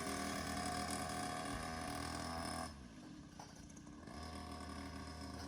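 Small petrol quad bike engine running steadily as it pulls away; the sound drops off suddenly about two and a half seconds in and returns more faintly about a second and a half later.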